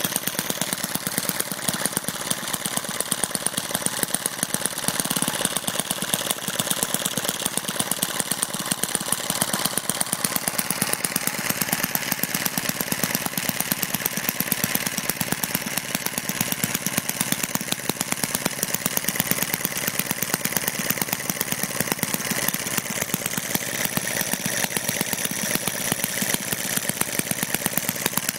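Small home-built model internal-combustion engine, built to Jerry Howell's Powerhouse design, running steadily with a rapid, even firing rhythm.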